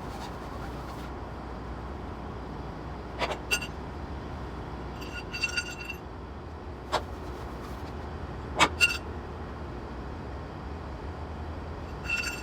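Scattered metallic clinks and knocks, some ringing briefly, as cargo straps with their metal hooks and other load gear are dropped into a truck's storage box, over a steady low hum.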